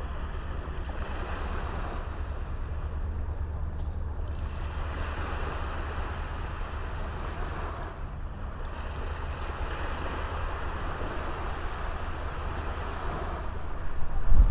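Small sea waves washing onto a beach, the surf swelling and easing every few seconds over a steady low rumble of wind on the microphone. The sound grows sharply louder near the end.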